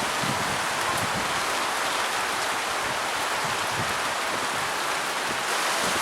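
Steady rushing and pattering of water, an even hiss with a few faint soft knocks underneath.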